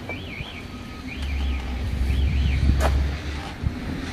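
Wind buffeting the microphone in a low rumble that swells and dies away over a couple of seconds. A repeated high warbling whistle runs through the first half, with a few sharp clicks of handling.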